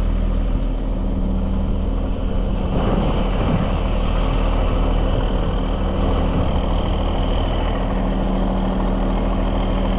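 Heavy truck's diesel engine idling steadily, with a rise in mechanical noise and a faint high whine starting about three seconds in.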